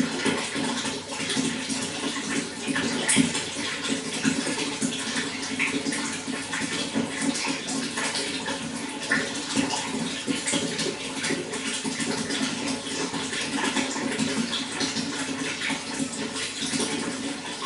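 Running water flowing steadily, with a continuous rush and many small splashes and gurgles, and one sharper splash about three seconds in.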